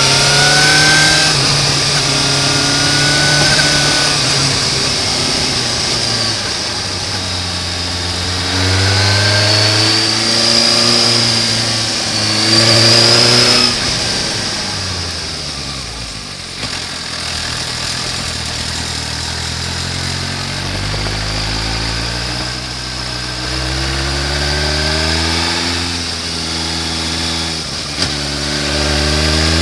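Suzuki GSR 750 motorcycle's inline-four engine under way, its revs climbing and falling again and again as the rider accelerates, shifts and rolls off on a steep road. There is a lower, quieter stretch in the middle before it pulls up through the revs again toward the end.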